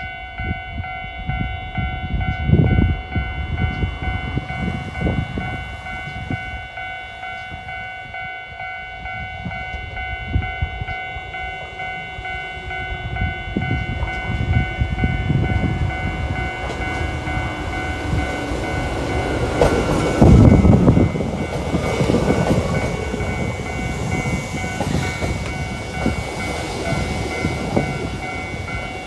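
A Japanese level-crossing alarm rings steadily while a Nagano Electric Railway 8500 series (ex-Tokyu 8500, field-chopper controlled) electric train approaches and runs in, its running noise growing louder. The train noise peaks about twenty seconds in as the cars come alongside.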